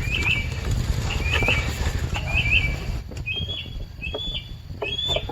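A bird chirping repeatedly in the background, a short high call about once a second, the later calls held a little longer, over a low steady rumble with a few faint clicks.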